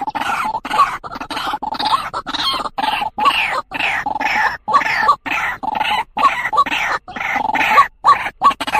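White-breasted waterhen (truwok) calls from a lure recording: short, harsh notes repeated over and over, with frequent abrupt breaks between them.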